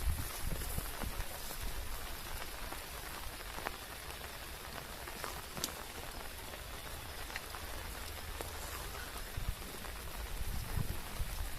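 Steady rain falling, with individual drops ticking now and then. Low bumps sound near the start and again near the end.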